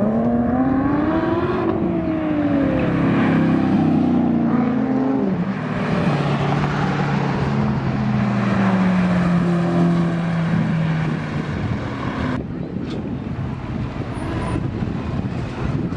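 Aircraft engines at an air show passing low overhead, their tone sweeping up and then falling as they go by, over a loud rushing roar. About twelve seconds in the sound cuts abruptly to a quieter, windier background.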